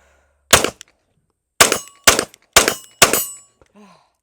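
Five 9mm pistol shots from a CZ P-10 C with a ported barrel. One comes about half a second in, then after a pause four more follow about half a second apart, the later ones trailing a short ring.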